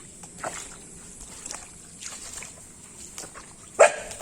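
Footsteps of someone walking at an even pace, with one much louder short sound a little before the end.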